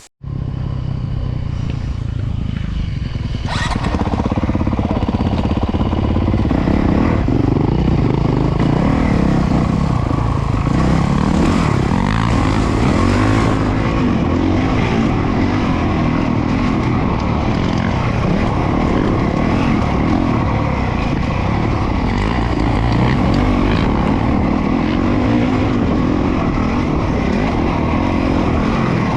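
Motocross bike engine running hard under riding, with wind and dirt noise; it starts abruptly and gets louder about three and a half seconds in. The bike is a Honda CRF450RWE, a 450 cc single-cylinder four-stroke.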